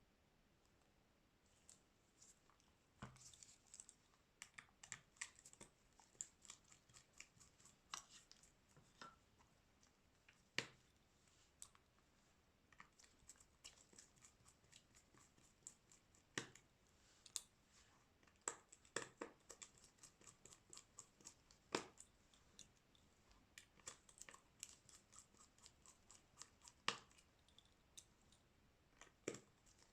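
Irregular small clicks, taps and scratches of hand tools and plastic parts being worked on a smartphone under repair, a few louder snaps among them.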